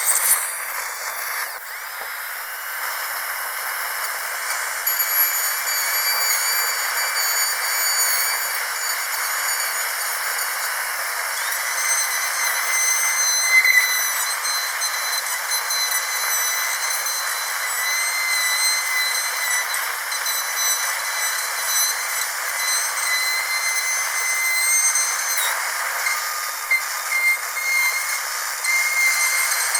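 Dental drill running at high speed: a steady high-pitched whine over a hiss, the pitch wavering slightly.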